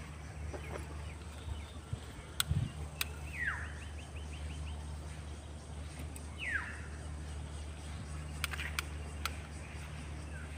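Birds calling over a steady low hum: two loud calls that sweep downward in pitch, the first followed by a quick run of short high notes. A few sharp clicks sound near the start and again near the end.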